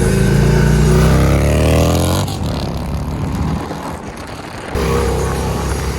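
Harley-Davidson V-twin motorcycle engine accelerating, its pitch rising for about two seconds before the throttle closes and it drops away. Just under five seconds in, the engine picks up again and runs steadily.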